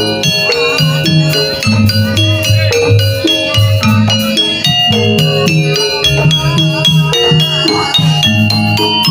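Jaranan gamelan music: pitched metal gong-chimes and metallophones play stepping notes over repeated low drum strokes, with a wavering melody line above them.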